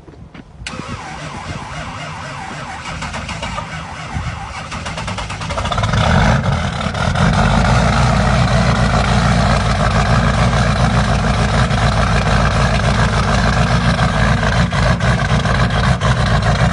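GMC Duramax 6.6-litre V8 turbo diesel cold-starting in extreme cold (about −40°). The starter cranks for about five seconds, then the engine catches and settles into a loud, steady rough idle.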